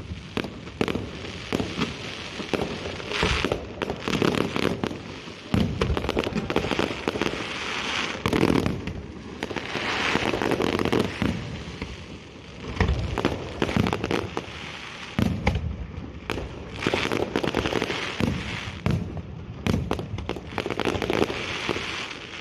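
Fireworks display: a continuous run of aerial shell bursts, sharp bangs one after another, with several spells of dense crackling.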